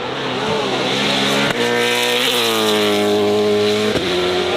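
Racing car engine at high revs, loud and continuous. Its note is cut sharply twice, about a second and a half in and near the end, typical of quick gear changes under hard acceleration.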